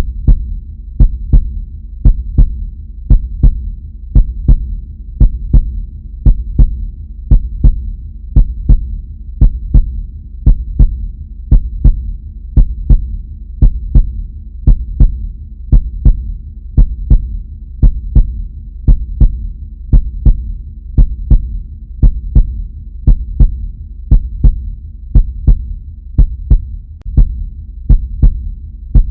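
Heartbeat sound effect: a steady double thump, lub-dub, about once a second, deep and low over a constant low rumble.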